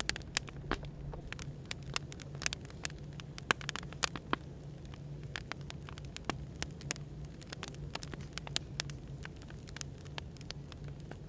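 Wood fire crackling with irregular sharp pops, over a steady low hum of background white noise.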